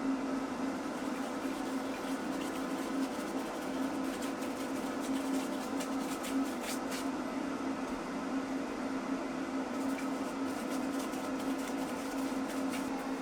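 A steady machine hum with one strong low drone and a few faint clicks.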